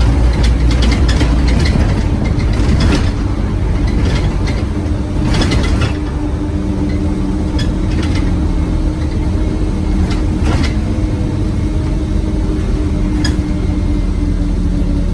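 Scania OmniCity single-deck bus heard from inside the saloon, its diesel engine running with a steady low rumble. Interior panels and fittings rattle and click throughout, most busily in the first few seconds and again briefly about ten seconds in.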